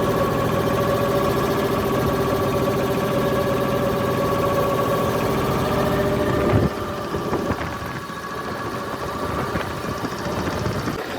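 Fishing boat's engine running at a steady pitch, cutting off suddenly about two-thirds of the way through, leaving wind and sea noise.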